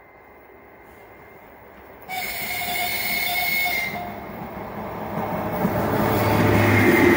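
An EP1 electric locomotive hauling a passenger train sounds its horn about two seconds in, a steady blast lasting about two seconds. Then the rumble of the approaching locomotive and its wheels on the rails grows steadily louder.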